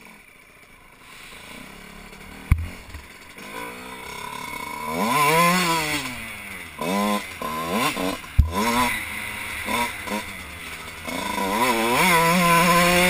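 2001 Kawasaki KX 125's two-stroke single-cylinder engine running, low at first, then revved up and down from about five seconds in with several quick throttle blips and a longer rev near the end. Two sharp knocks, about two and a half and eight seconds in.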